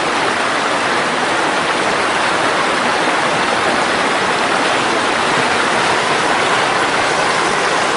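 Mountain stream rushing over rocks in a steady, even torrent of water.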